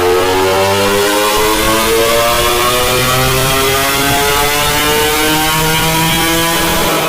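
Honda CBR250RR's 250 cc parallel-twin engine revving under load on a chassis dynamometer, its exhaust note climbing steadily in pitch through a full-throttle dyno pull.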